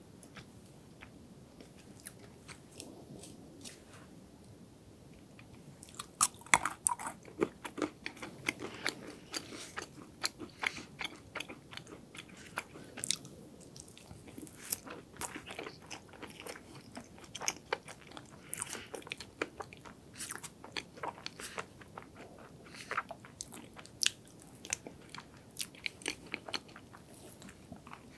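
Close-miked eating of hazelnut chocolate cake: chewing with many sharp crunches and mouth clicks, mostly from about six seconds in.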